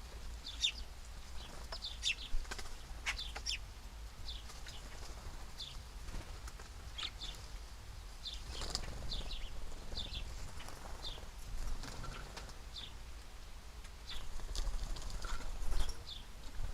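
Small birds at a feeder giving many short, high chirps, scattered irregularly, with a few wing flutters.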